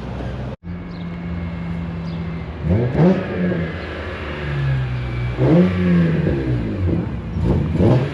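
Car engines running as cars drive in, with three short revs where the engine pitch rises and falls back: about three seconds in, five and a half seconds in, and near the end.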